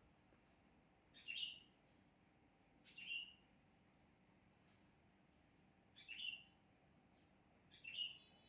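A bird chirping: four short, sharp calls at irregular spacing, each dropping quickly in pitch, over a faint steady background hum.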